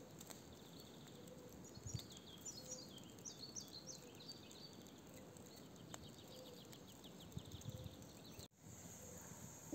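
Quiet forest ambience with a songbird singing a quick run of high chirping notes a couple of seconds in, then fainter calls.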